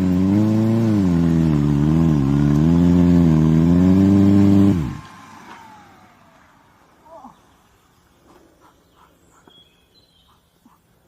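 Motorcycle engine running with its pitch rising and falling a little as the throttle is worked, cutting off suddenly about five seconds in. After that, quiet outdoor ambience with faint clicks and bird chirps.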